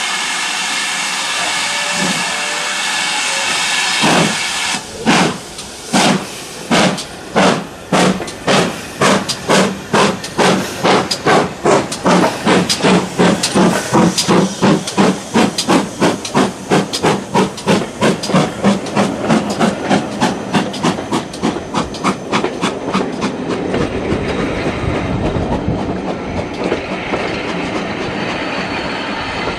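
GWR Manor-class steam locomotive No 7828 Odney Manor starting away: steam hissing for the first few seconds, then exhaust chuffs from about four seconds in, slow at first and quickening steadily to several a second. Near the end the chuffs give way to the low rumble of the train rolling by.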